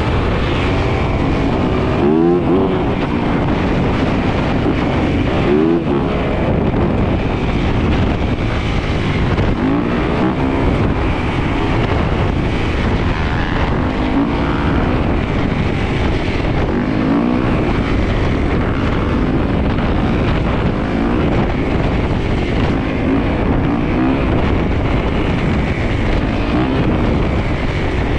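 Dirt bike and ATV engines running in a group, with one engine after another revving up and dropping back over a steady rumble every few seconds.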